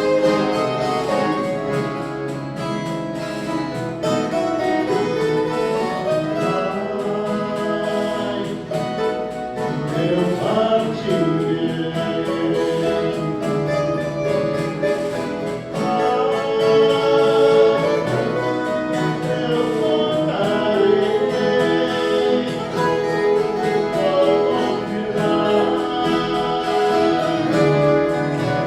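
Viola caipira orchestra playing a Christmas song, with a group of voices singing along.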